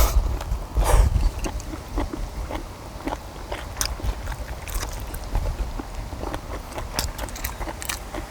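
Eating sounds: people biting and chewing chewy stir-fried small octopus with kimchi, with scattered sharp clicks and scrapes, the loudest about a second in.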